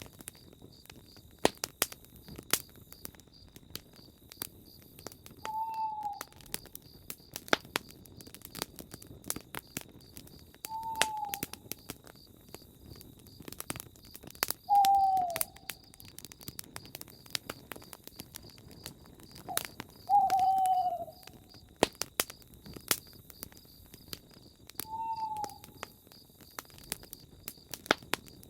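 A campfire crackling with frequent sharp pops, while an owl gives five single hoots, each short and slightly falling in pitch, about five seconds apart.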